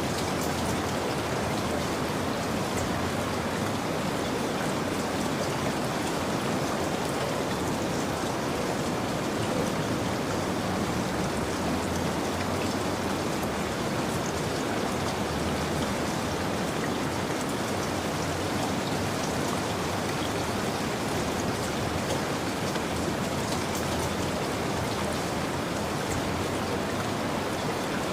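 Steady rainfall, a dense even patter of raindrops with no thunder or change in strength.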